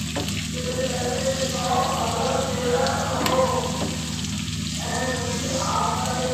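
Sliced onions, green chillies, ginger, ajwain and cumin sizzling steadily in hot oil in a wok: the tempering (baghar) for a dal. Under it runs a steady low hum, and pitched tones come and go in the mid range.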